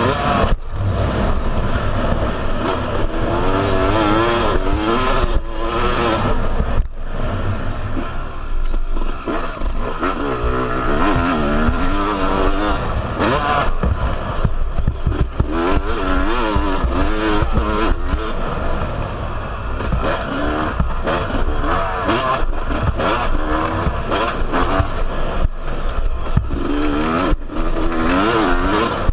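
Yamaha YZ250 two-stroke motocross bike's engine heard from on board, revving up and falling back over and over as it is ridden around a dirt track.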